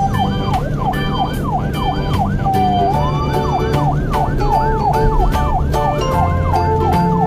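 Police car siren sound effect yelping in rapid rising-and-falling sweeps, about three a second, with a brief break near three seconds in, over background children's music with a steady beat.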